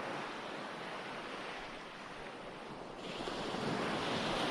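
Recorded ocean waves washing in as a steady surf track. One swell peaks near the start, and a louder wave builds from about three seconds in.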